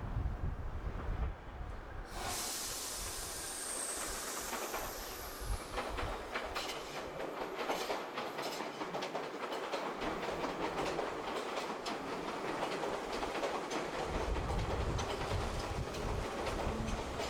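Tobu 8000 series electric train running along the track: a rushing hiss rises suddenly about two seconds in, a brief high falling squeal follows, and then the wheels click steadily over the rail joints.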